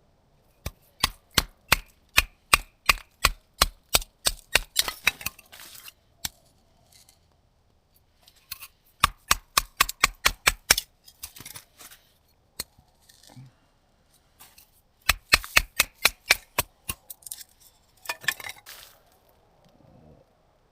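Rapid runs of sharp knocks, several a second, in four bursts with short pauses between them.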